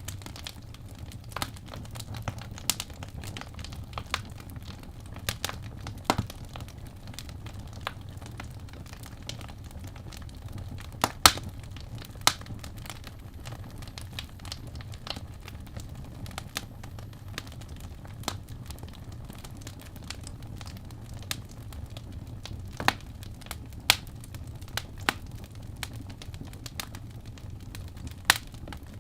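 Wood fire burning in a fireplace: a steady low rumble of flames with irregular sharp crackles and pops, one louder pop about eleven seconds in.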